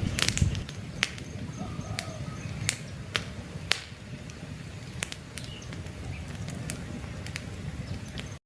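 Wood campfire burning with a low steady rush and frequent sharp crackles and pops from the logs, with faint bird chirps in the background.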